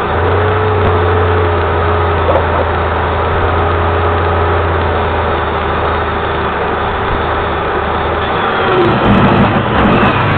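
Steady mechanical drone with a low hum, like a running engine or motor, shifting about eight and a half seconds in.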